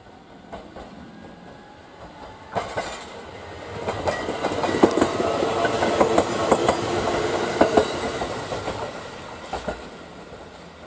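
Shinano Railway SR1 series electric train passing close by: the sound builds as it approaches, is loudest for a few seconds with the wheels clicking over rail joints under a steady hum, then fades as it draws away.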